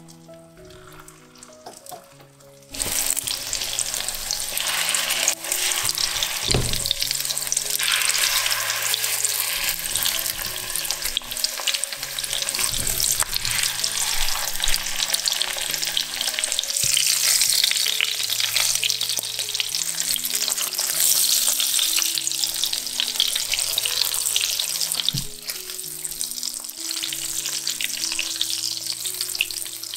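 Egg-and-breadcrumb-coated salmon pieces sizzling in hot olive oil in a frying pan; the loud sizzle starts suddenly about three seconds in and keeps going, with a few light knocks along the way.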